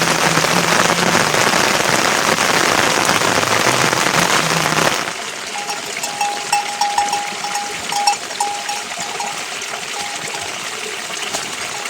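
Rain falling steadily, heavy and dense for the first five seconds, then suddenly softer. Over the softer rain, a thin high tone sounds in short repeated pulses for a few seconds.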